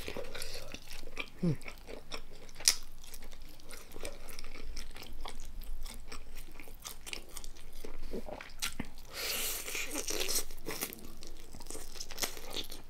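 Close-miked eating: crisp bites, crunching and chewing of som tam and raw vegetables, with quick clicky mouth sounds. A louder run of crunching comes about nine seconds in and lasts a second or so.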